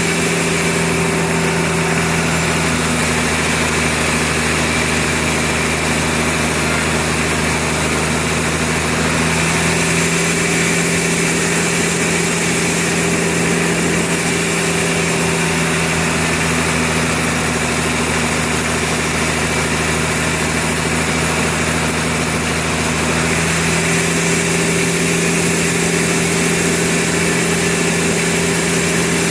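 Sawmill machinery running steadily: a constant engine-like hum over dense mechanical noise, with its tone shifting slightly a few times.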